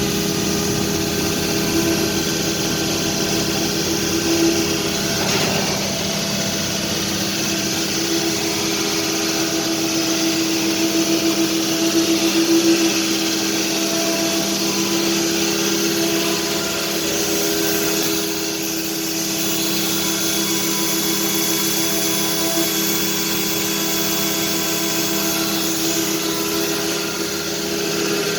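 Biesse Rover A-S 1325 UTS 5-axis wood CNC machining center running with a steady mechanical drone and several held hum tones.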